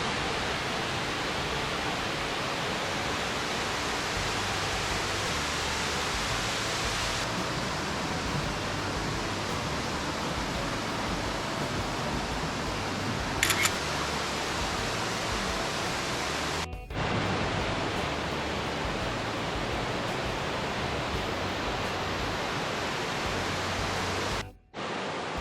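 Waterfall's steady roar of falling water, dropping out abruptly for a moment about two-thirds through and again near the end. A brief sharp click sounds a little past halfway.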